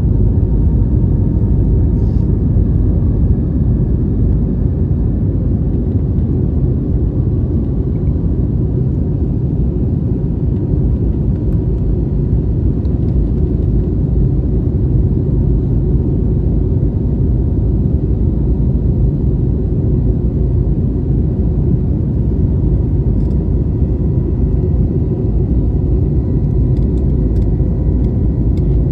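Airliner cabin noise in flight: a steady, even low rumble of engines and rushing air, with faint thin steady tones above it.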